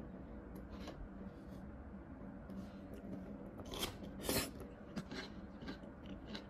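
Crunchy bites into a fresh young corn cob covered in curry, with chewing. The loudest crunches come about four seconds in.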